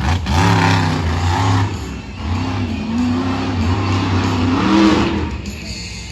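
Monster truck engine revving hard, its pitch rising and falling again and again, then easing off about five seconds in.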